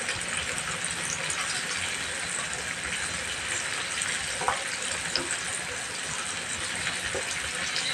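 Chicken pieces frying in oil in a wok: a steady sizzle with scattered small pops and crackles.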